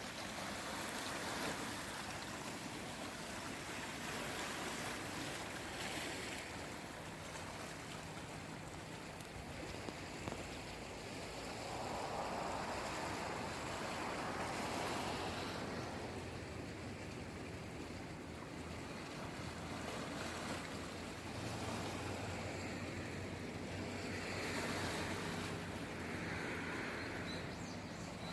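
Sea waves washing in and drawing back, the rush of water swelling and fading every few seconds, with a faint low steady hum underneath.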